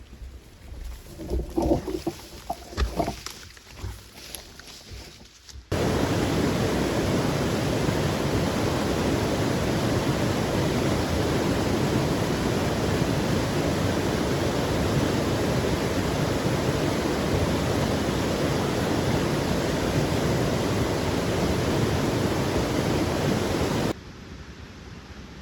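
Steady, loud downpour of rain that starts abruptly about six seconds in and cuts off abruptly near the end. Before it, a few irregular knocks and rustles.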